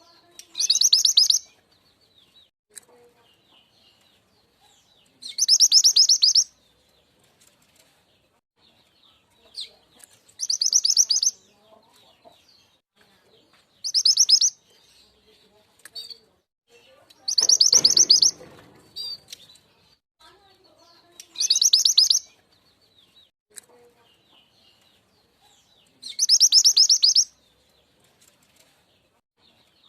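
Mantenan gunung (truntung weru) song used as a bird-luring call: high, fast-pulsed trills about a second long, repeated seven times every four to five seconds, with faint short calls between them.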